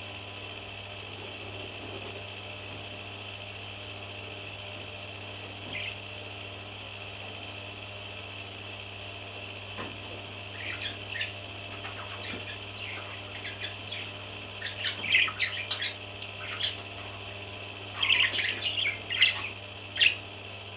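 Baby parrots chirping and squawking in short bursts, sparse at first and then busier and louder in the second half.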